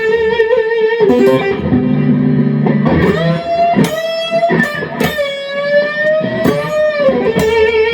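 Electric guitar, a Fender Telecaster, played through an amplifier: single held notes and short runs with sharp pick attacks, several notes bent up in pitch and let back down. The tone is the bright, crisp Tele sound.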